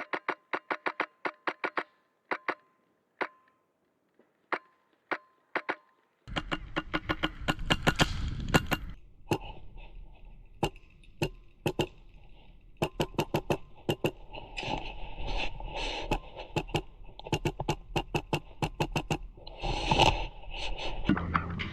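Airsoft gunfire: strings of sharp, clicking shots, about five a second at first, then scattered single shots and short bursts. From about six seconds in, a steady rush of noise runs under the shots.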